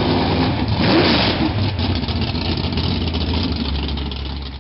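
Car engine idling with a short rev about a second in, the sound fading out near the end.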